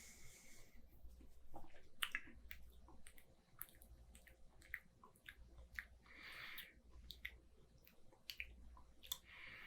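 Faint mouth sounds of someone tasting beer: scattered lip smacks and tongue clicks, with short breathy hisses at the start, about six seconds in and near the end.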